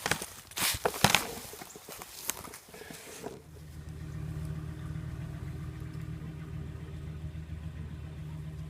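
A run of sharp, irregular knocks and cracks of brush and branches being handled. A little over a third of the way in, this cuts to the steady low hum of a vehicle engine running.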